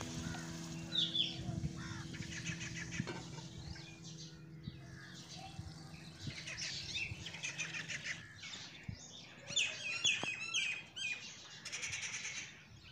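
Small birds chirping and calling in short high notes, thickest near the end, over faint held tones of background music that fade out partway through.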